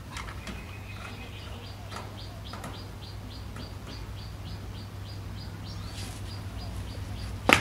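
A small bird chirping in a steady series of short high notes, about three a second, over light clicks of a plastic water dispenser being handled against a wire cage, with one sharp click near the end.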